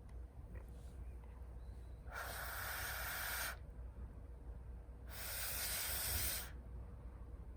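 Air blown in long puffs into a wood gas stove's fire to get it to catch: two rushing blows about three seconds apart, each lasting over a second.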